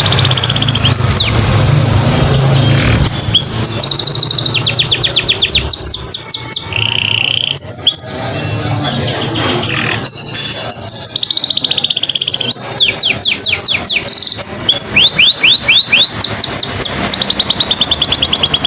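Domestic canary singing continuously, a long song of fast trills of rapidly repeated notes mixed with quick upward-sweeping notes.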